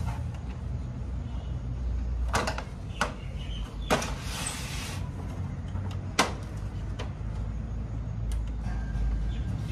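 Scattered clicks and knocks of a photocopier's screws and plastic parts being handled during disassembly, with a short scraping rush about four seconds in, over a steady low hum.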